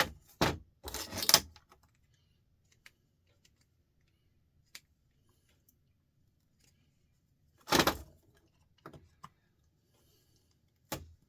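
Metal parts being worked by hand, scraped and clinking: three short rasping strokes in the first second and a half, another a little under eight seconds in, and smaller ones later, with faint clicks in between.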